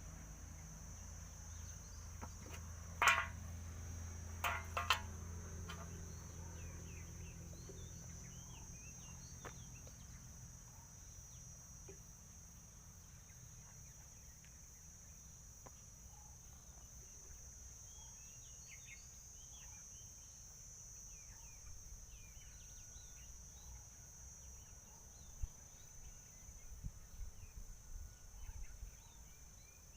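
Outdoor rural ambience: a steady high-pitched insect drone with scattered short bird chirps. A few sharp clicks about three and five seconds in.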